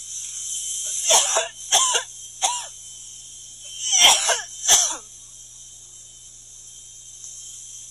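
Natural gas hissing steadily from a leak at the side of a house, the sign of a broken gas line. A person's voice breaks in with five short outbursts, like coughs or sobs, about a second in, near two seconds, and around four to five seconds.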